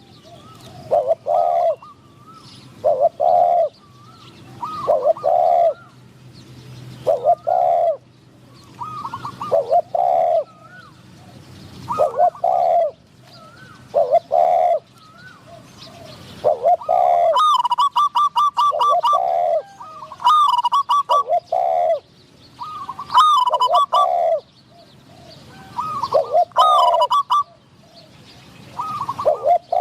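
Spotted doves cooing, one phrase roughly every two seconds. From a little past halfway, quick high chirping notes run along with most of the phrases.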